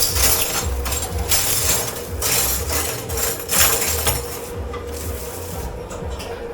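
Dishwashing in a commercial dish pit: a series of rough rubbing, scrubbing noises, each under a second long, with a faint steady hum beneath.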